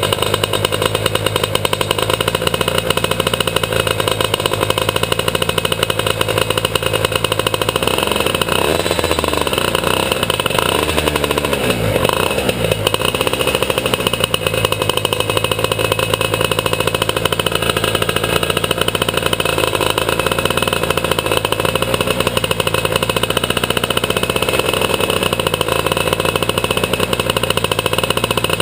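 Two-stroke superkart engine running hard at high revs. From about 8 to 14 seconds in, its pitch dips and climbs back several times, then it holds steady again.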